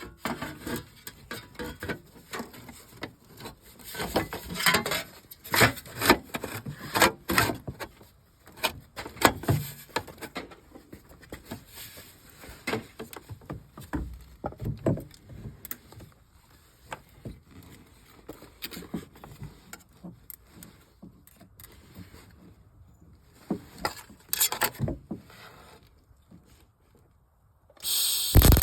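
Irregular clinks and knocks of metal parts and tools being handled during a snowmobile bracket repair. Near the end a loud steady hissing noise starts: the welder's arc being struck.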